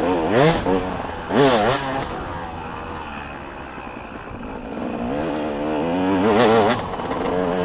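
Motocross dirt bikes revving hard, their engine pitch jumping up and down with throttle and gear changes. There are loud bursts near the start, about a second and a half in and again about six and a half seconds in, with quieter engines between.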